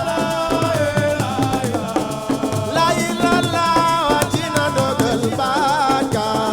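Live Senegalese assiko band music: drums and shakers keeping a dense rhythm under a wavering, ornamented lead melody line.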